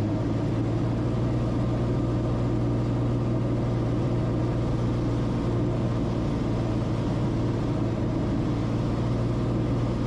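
Cessna Corvalis TTX's turbocharged six-cylinder piston engine running steadily, a constant low drone heard inside the cockpit.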